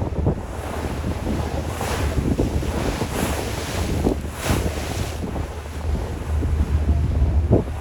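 Wind buffeting the microphone aboard a ferry, over a low rumble and the rushing wash of the sea; the hiss swells up three times in the middle.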